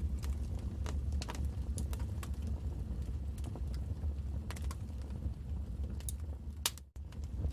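Wood fire crackling, with irregular sharp pops and snaps over a steady low rumble. The sound cuts out for an instant about seven seconds in.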